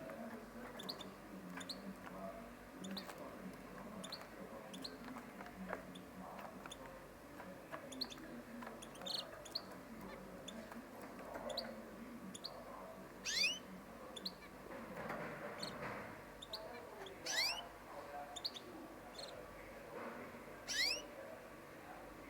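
Caged canaries chirping: a run of short, high chirps about twice a second, with three louder rising calls about 13, 17 and 21 seconds in.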